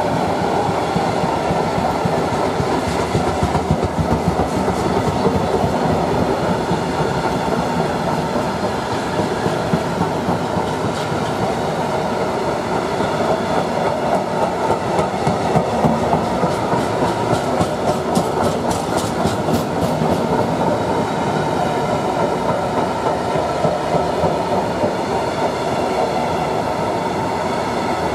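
Train wagons rolling past with a steady rumble of wheels on the track, broken twice by runs of rhythmic clicking as wheelsets cross rail joints.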